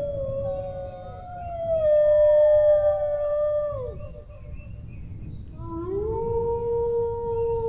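Dogs howling: long drawn-out howls that slide down in pitch, two overlapping in the first half, then after a short pause a new howl that rises and holds steady. A steady low rumble runs underneath.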